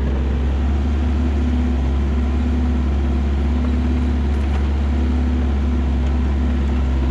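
Kubota KX121-3 compact excavator's diesel engine running steadily while the machine works, with a higher hydraulic whine coming and going several times.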